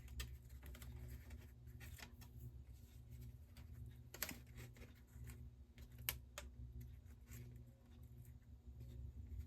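Faint scattered taps and rustles of cardstock pieces being handled and pressed into place on the work surface, with a sharper click about four seconds in and another about six seconds in, over a low steady hum.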